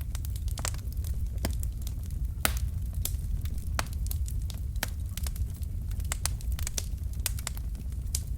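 Wood fire burning in a fireplace: irregular sharp crackles and pops from the logs over a steady low rumble of the flames, with one louder pop about two and a half seconds in.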